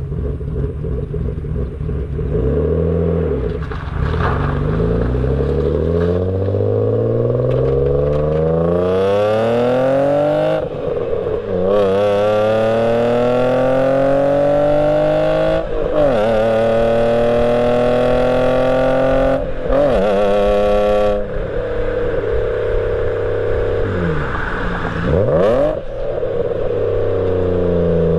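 BMW E34 525i inline-six running through a new exhaust of a two-foot Cherry Bomb glasspack straight-piped into a fart-can muffler, accelerating hard through the gears. The exhaust note climbs in pitch, drops at each of several upshifts and climbs again, then settles to a lower, steadier note with one brief dip and rise near the end.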